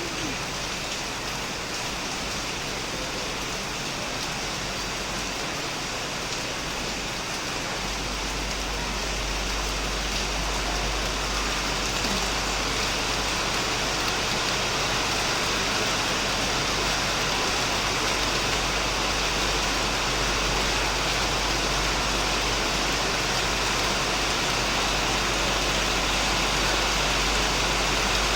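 Heavy rain falling steadily on a shed. A low rumble joins about eight seconds in, and the rain grows a little louder.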